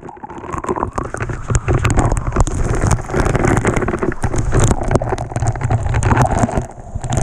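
Loud waterfall water rushing and splashing close to the microphone, with constant crackling spatter over a low rumble.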